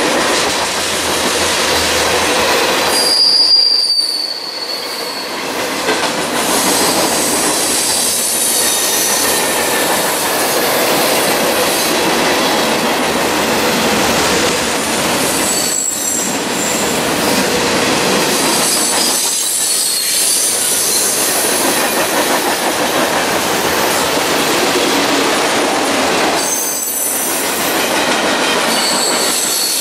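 Freight cars (tank cars and covered hoppers) rolling past close by: a steady loud noise of steel wheels on rail. Short high-pitched wheel squeals rise out of it a few times, first about three seconds in.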